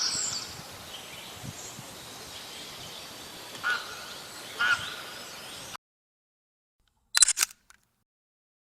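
Outdoor nature ambience with two short bird chirps. The sound cuts off abruptly to dead silence, and about a second and a half later comes a quick burst of sharp clicks.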